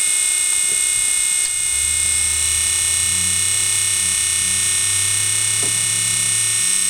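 12-volt vent fan running with a loud, steady, high-pitched buzz; a lower hum joins about two seconds in. The noise comes from the fan blades hitting a piece of wood left where its mounting hole was drilled.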